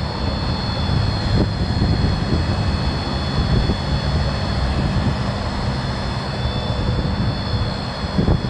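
Ford 6.7 L turbo diesel engine running steadily, with a steady high-pitched whine over the low engine note.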